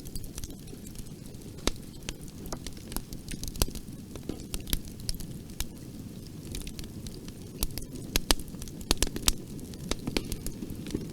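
Bonfire burning: a steady low rumble of flames with irregular sharp crackles and pops of burning wood, some louder snaps scattered through.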